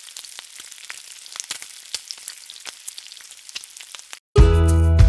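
Food frying in a pan, a steady sizzle dotted with sharp crackles. It cuts off about four seconds in, and loud music with a strong bass starts right after.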